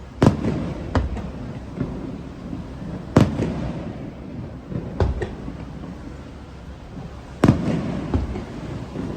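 Fireworks shells bursting overhead: a string of sharp booms, three loudest about three to four seconds apart with smaller bangs between, each trailing off in an echo.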